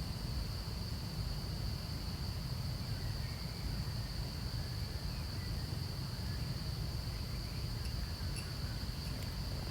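Outdoor ambience of insects droning steadily at one high pitch over a constant low rumble, with a few faint short chirps and a couple of small clicks near the end.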